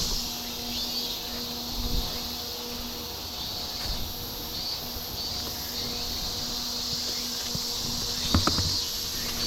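Insects chirring steadily in the high range, over the steady low hum of the small electric fans in a fan-cooled work jacket. A few knocks or footsteps near the end.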